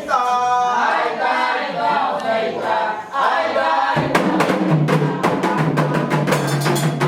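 A single voice chants a call. About four seconds in, Candomblé percussion comes in abruptly: atabaque drums and a struck bell playing a fast, dense rhythm.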